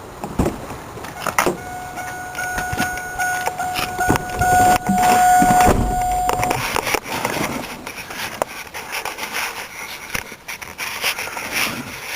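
Car door being opened with clicks and thumps as someone climbs in, while the car's steady warning tone sounds for about five seconds and then stops. Rustling and knocking of movement in the seat follow.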